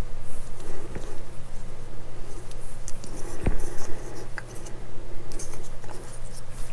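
Small screwdriver turning a tiny screw into a plastic model-kit part, with light scraping, rubbing and small clicks of plastic, and a sharper click about three and a half seconds in. A steady low hum runs underneath.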